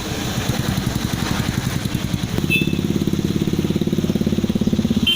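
Motorcycle engine running with a rapid, even exhaust beat. About halfway in it grows louder and fuller.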